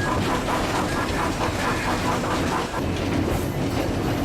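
A train running along the line, with a steady rumble and the noise of its wheels on the track.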